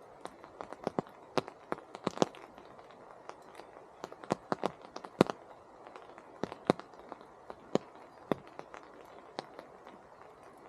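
Rain in a forest: a soft steady patter of rainfall, with large drops from the trees landing close by as irregular sharp taps, a few much louder than the rest.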